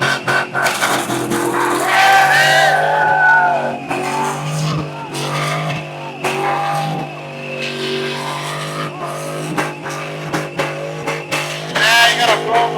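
A car engine held at high revs during a burnout, with music playing over it.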